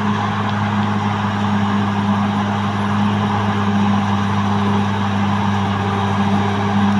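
Caterpillar D6R XL bulldozer's diesel engine running steadily at an unchanging pitch.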